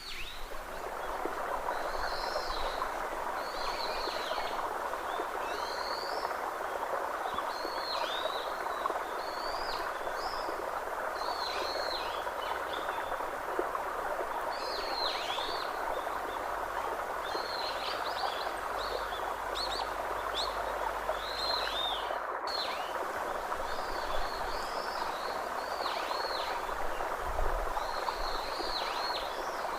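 Birds calling over and over, short high chirps that slur downward, coming every second or two over a steady rushing hiss of natural ambience.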